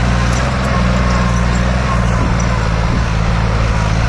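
Farmtrac 60 PowerMax tractor's diesel engine, fitted with an added turbo and turned-up fuel, running loud and steady at constant revs.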